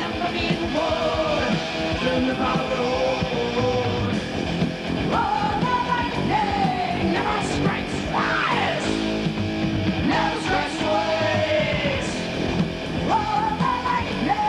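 Heavy metal band playing, with distorted electric guitars, drums and sung and yelled vocals; a guitar line bends and glides throughout, with a sharp upward slide about eight seconds in.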